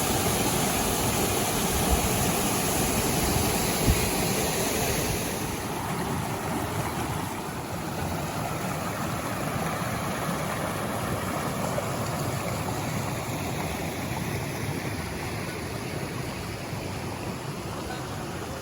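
Waterfall's rushing water: a steady, even roar that is brighter and louder for the first few seconds, then slightly softer.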